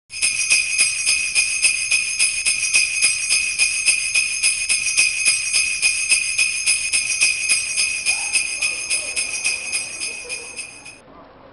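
Sleigh bells shaken in a rapid, even rhythm, cutting off abruptly near the end.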